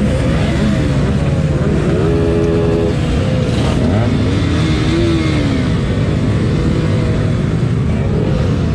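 Several sport motorcycles riding in a group, their engines running and revving, pitch rising and falling as they accelerate and ease off. About two seconds in there is a short steady tone.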